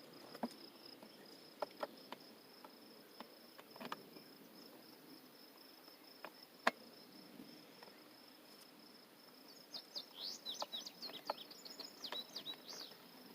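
An insect's steady, high-pitched trill, with a few faint sharp clicks in the first half and a run of quick chirps near the end.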